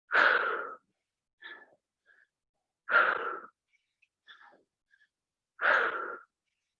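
Forceful breaths out, three strong ones about every three seconds with fainter short breaths between them: a person exhaling hard on each rep of a dumbbell exercise.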